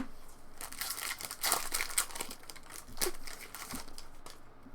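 Trading-card pack wrapper crinkling as it is torn open and crumpled, a run of crackles lasting about three seconds.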